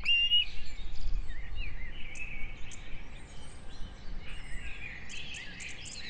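Birds chirping and singing in a varied run of short high calls and trills, with a brief high whistle right at the start.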